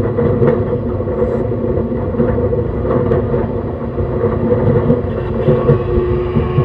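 Cabin running noise of a JR East E131 series 600-subseries electric train travelling at speed: a steady low rumble of wheels on rail with a few faint clicks. A faint humming tone from the drive comes in near the end.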